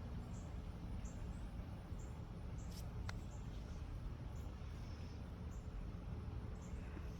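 Crickets chirping in short, high, repeated chirps about every half second to second, over a steady low rumble, with one sharp click about three seconds in.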